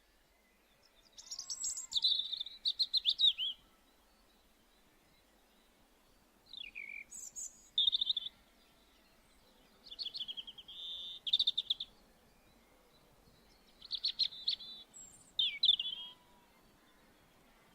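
A songbird singing four short phrases of high trills and quick notes, a few seconds apart, over faint background noise.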